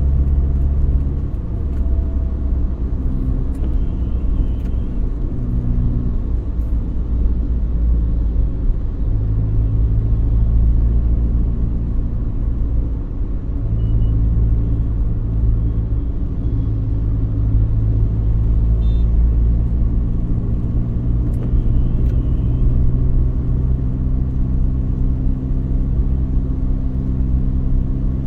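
Car on the move: a steady low engine and road rumble. The engine's pitch steps up and down several times as the speed changes.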